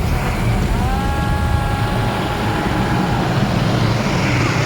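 Automatic car wash machine running over the car, heard from inside the cabin as a steady rumble and wash of noise. About a second in, a whine rises and then holds level for about two seconds.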